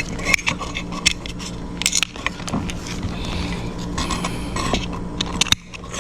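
Scattered light clicks, taps and scrapes of hands working with electrical wires and small metal parts of a dishwasher junction box.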